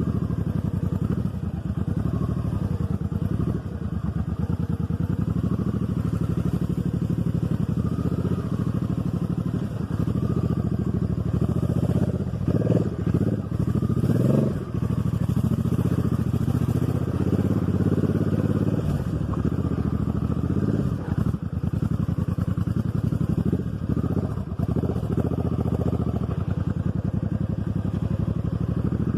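Motorcycle engine running at low revs while riding off-road, a steady rapid firing beat, with a few short surges in revs about twelve to fifteen seconds in.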